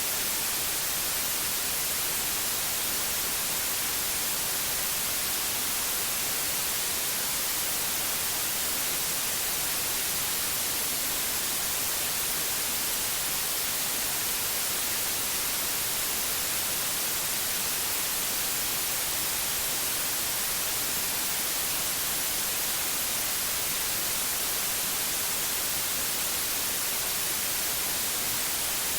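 Steady white noise: an even, unbroken hiss, brightest in the treble, with no change throughout.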